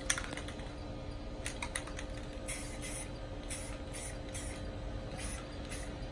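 Aerosol spray-paint can sprayed in short hissing bursts, about seven in a row, after a few faint clicks, over a steady low rumble.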